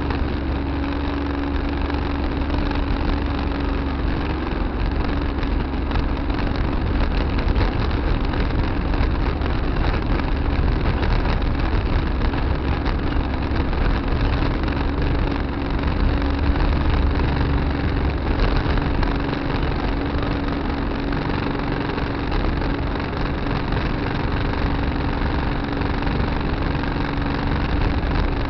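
Tractor engine running steadily, heard from a dash camera mounted on the tractor.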